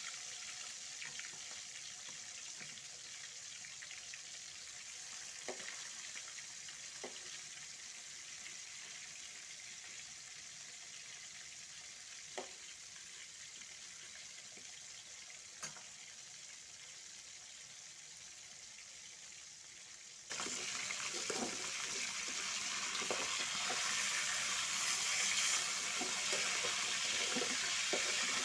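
Chicken pieces sizzling in hot oil in a wok as they are half-fried, with a few light clicks of a metal spatula against the pan. About two-thirds of the way through, the sizzle suddenly gets much louder, with steady clatter and scraping of the spatula as the pieces are turned.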